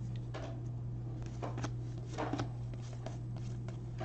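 Baseball trading cards being flipped and slid against one another in the hands: a scatter of short, papery flicks over a steady low hum.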